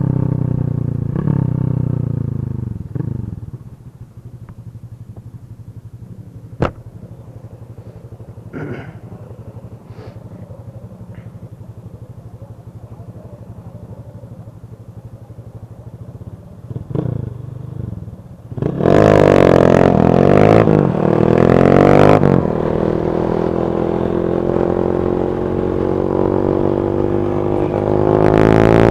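Motorcycle engines passing and revving: a loud engine fades away over the first few seconds, then a low steady engine hum, and about two-thirds through a loud burst of revving, after which engines run loud to the end.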